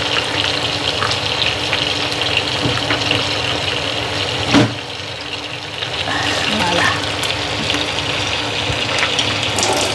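Chicken pieces and onion frying in a pan, with a steady sizzle and crackle. One louder knock comes about halfway through.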